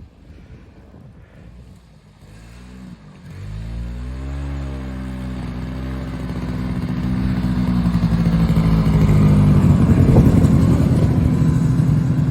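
An old Yamaha Bravo snowmobile's two-stroke engine revs up and down, then grows steadily louder as the machine approaches.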